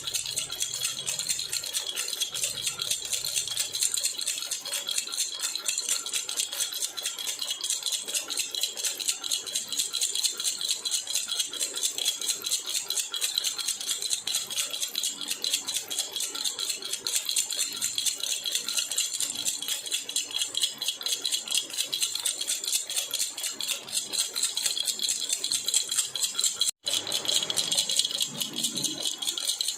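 Jhunjhuna baby rattle shaken fast and steadily in a continuous jingling rattle, broken only by a momentary gap near the end.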